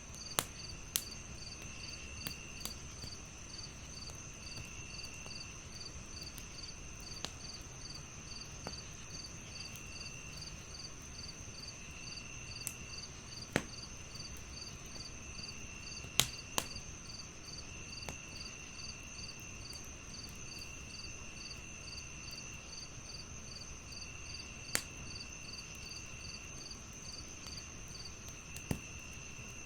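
Crickets chirping in a steady pulsing rhythm over a constant high insect buzz, with a lower trill that comes and goes every few seconds. A wood fire crackles with occasional sharp pops, the loudest about halfway through.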